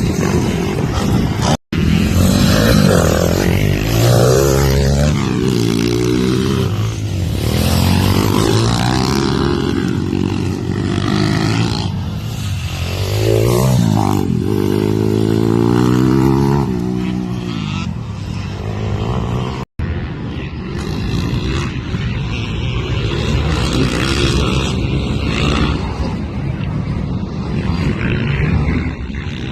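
Pit bike engine revving hard and easing off again and again, its pitch climbing and falling, with two brief dropouts to silence.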